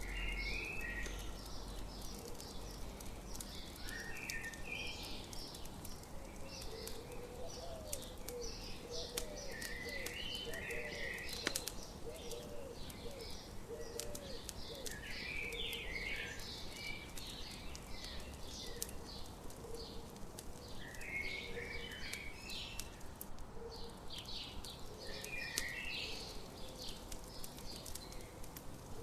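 Birdsong in short chirping phrases, one every few seconds, over the sharp crackle and pops of a campfire. A run of low cooing notes comes in about a quarter of the way through.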